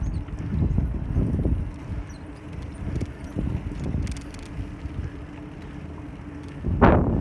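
Riding a bicycle: wind buffeting the camera microphone over an uneven low road rumble with a faint steady hum. Near the end the jolting rumble turns louder and rougher.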